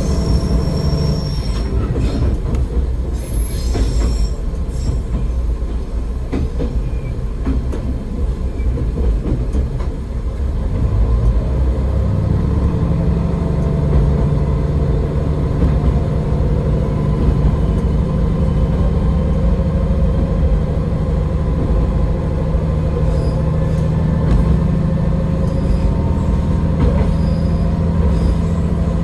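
AN-8800 diesel railcar under way, with a steady diesel engine drone and the noise of wheels on rail. A brief high wheel squeal comes in the first few seconds. About eleven seconds in, the engine note grows louder and stays there as the car pulls harder.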